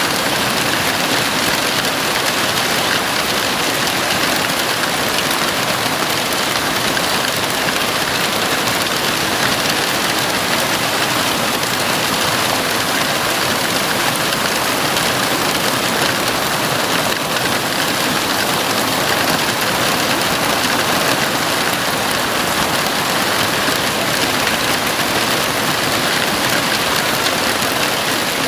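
Heavy rain falling steadily on a house roof, a constant even hiss of drops.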